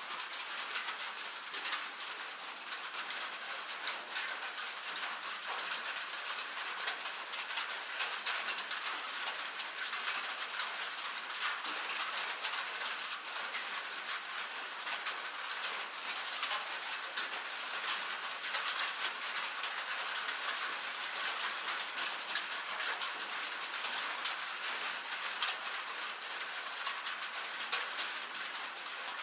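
Rain falling on a metal roof: a steady, dense patter of many small drop ticks.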